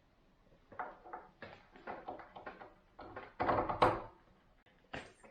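Kitchen cupboard door and panel being handled: a run of short knocks and clatters, loudest about three and a half seconds in, with a sharp click near the end.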